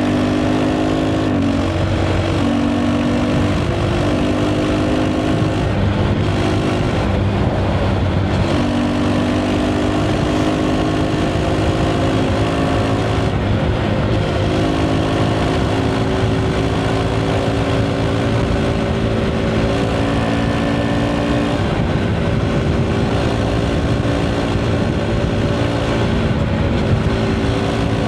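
KTM 390 Adventure's single-cylinder engine through its stock exhaust, running steadily under way, its pitch drifting slowly up with a few small changes in the engine note, over wind and road rush.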